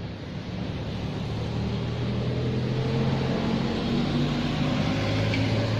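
An engine running with a steady low hum that grows louder over the first few seconds, then holds.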